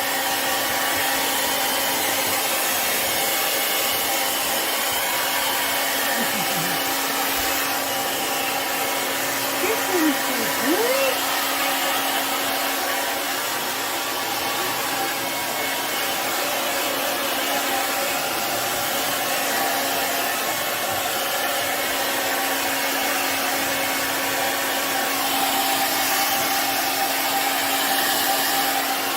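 Handheld hair dryer on the warm setting running steadily, a constant rush of air with a steady hum, blowing a puppy's coat dry. About ten seconds in, two short squeaky sliding sounds rise and fall over it.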